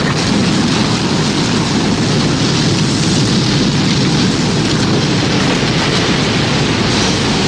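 Tornado sound effect: a loud, steady roar of wind with a deep rumble underneath, holding level without rising or falling; no siren is heard.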